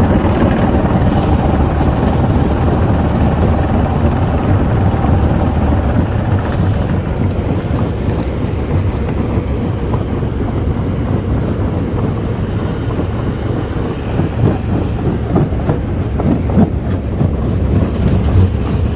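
Heavy machinery at a stone crushing plant running continuously: a loud, steady low rumble with rattling, and scattered knocks in the second half.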